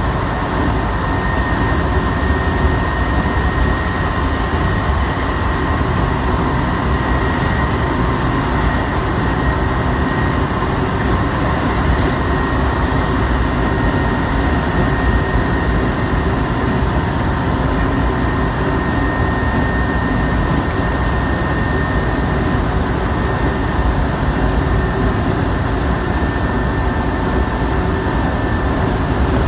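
Shibayama Railway 3500-series electric train running at steady speed, heard from inside the passenger car: a steady low rumble of wheels and running gear with a faint, even high whine.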